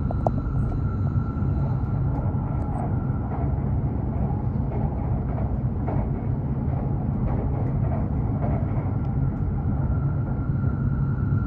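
Steady noise inside a Hokuriku Shinkansen train: a constant low rumble with a faint, steady high hum above it.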